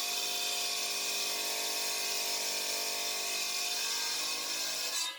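Belt-driven miter saw cutting a facing brick at 45 degrees to round off a corner. It makes a steady, high-pitched grinding whine that cuts off abruptly near the end.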